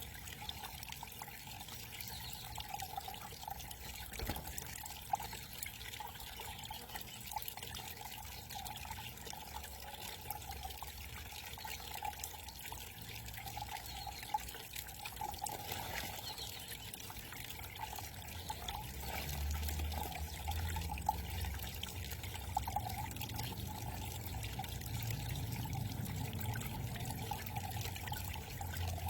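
Backyard garden cascade trickling and splashing steadily, with a low rumble building in the second half.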